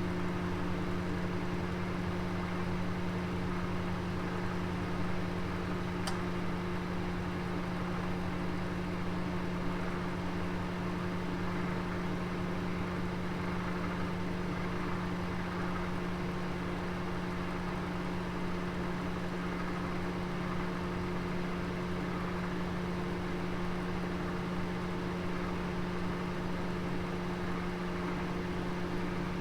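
Oven running: a steady low hum over an even hiss, with one faint tick about six seconds in.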